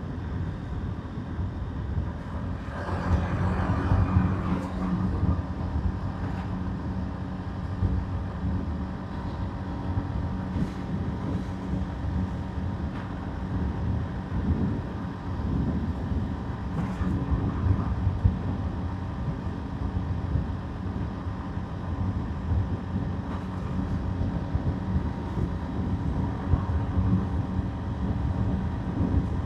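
Motorbike engine running steadily under way, with wind rumble on the microphone and road noise. The sound swells louder for a couple of seconds about three seconds in.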